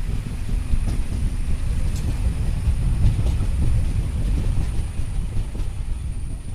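Passenger train running: a steady low rumble from the wheels and carriage, with a few faint, irregular clicks from the rails.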